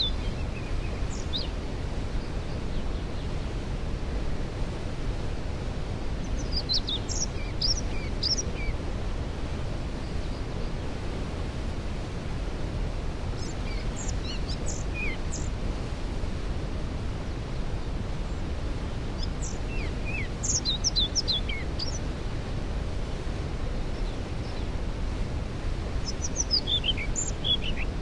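Waterfall rushing steadily, its sound deepest and strongest in the low range. Over it a songbird sings four short phrases of quick falling notes, about every six or seven seconds.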